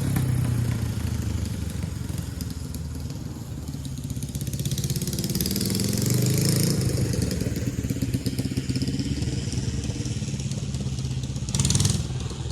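Honda CJ360 parallel-twin motorcycle engine running while being ridden. The revs climb about four to six seconds in and drop back, and there is a short burst of noise near the end.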